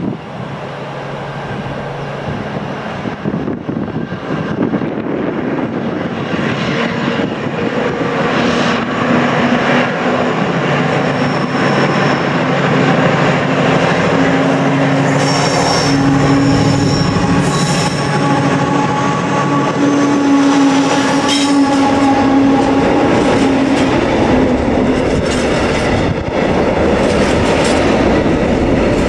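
A Freightliner Class 70 diesel locomotive with a GE PowerHaul V16 engine approaches and passes hauling a container freight train. The engine's steady drone grows louder, with a high squeal from the wheels in the middle. Near the end the container wagons clatter over the rail joints.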